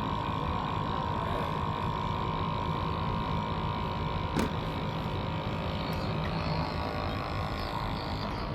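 A steady mechanical hum with a held whine from a small running machine. The whine stops with a click about halfway through, and the low hum fades out a couple of seconds later.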